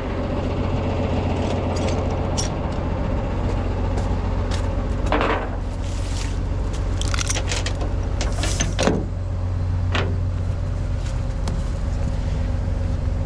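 Tow truck engine idling steadily, with a few short metallic clinks and knocks in the middle.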